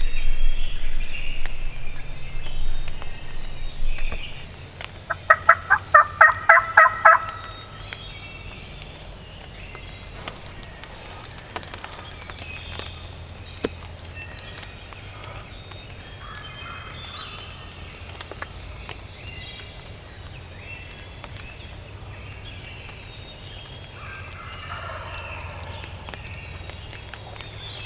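Wild turkey gobbler gobbling once, a fast rattling gobble about five seconds in, with small songbirds chirping.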